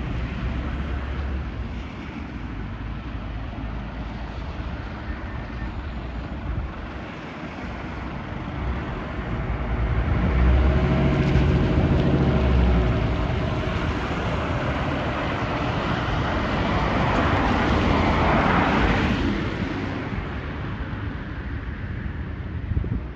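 Scania fire engine's diesel engine driving by on the road with tyre and traffic noise. The engine grows louder about halfway through, then a broad rush of road noise swells and fades a few seconds later. No siren is heard.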